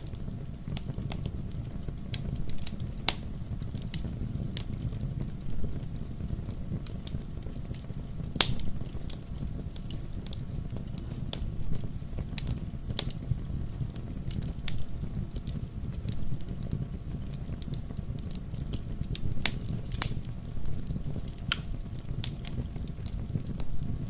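Wood fire crackling, with irregular sharp pops and snaps over a low steady rumble of burning.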